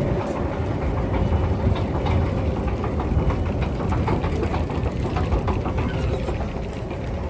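Steady low rumble of vehicle traffic and city bustle, with scattered short clicks and knocks.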